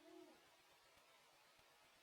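Near silence: faint room tone, with one brief, faint pitched sound lasting under half a second at the very start.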